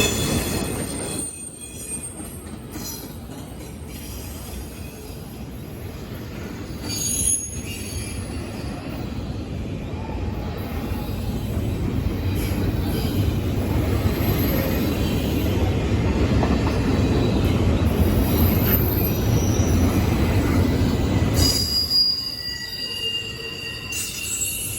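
Train rolling past with a steady low rumble, its wheels squealing in thin high tones at several moments. The rumble falls away about twenty-two seconds in, leaving the squeal.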